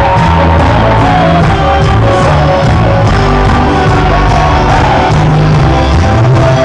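Loud live cuarteto music: the band playing a steady dance beat with prominent bass, a voice singing over it and the crowd shouting along.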